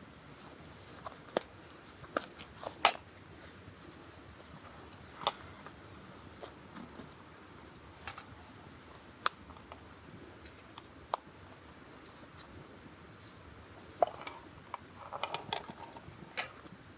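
Sporadic sharp clicks and crunches, with a denser run of crunching near the end.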